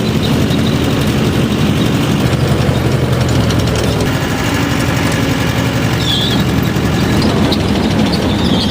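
Powertrac tractor's diesel engine running steadily.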